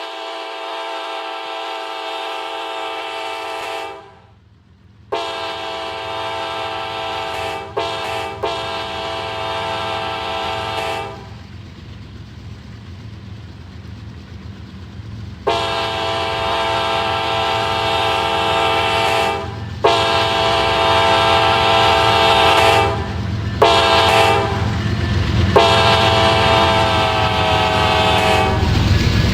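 Freight locomotive's multi-chime air horn sounding the grade-crossing signal twice: long, long, short, long, then after a pause of a few seconds the same again. Beneath the horn the locomotive's diesel rumble grows louder as the train comes closer.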